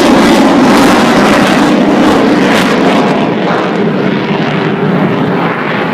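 Loud aircraft noise from a display aircraft flying past, steady and strongest in the first second or so, then easing off a little.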